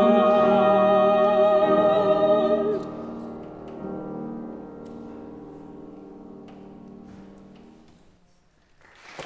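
Soprano and mezzo-soprano duet holding a final note with vibrato over piano; the voices stop about three seconds in. The piano chord then rings on and slowly dies away, and applause starts right at the end.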